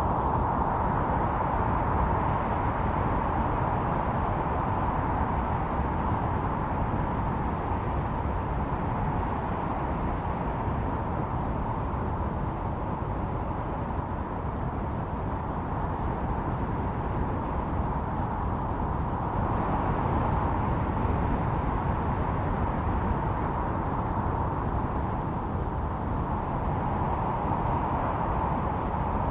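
Blizzard wind blowing steadily, a rushing noise that swells and eases slowly every several seconds.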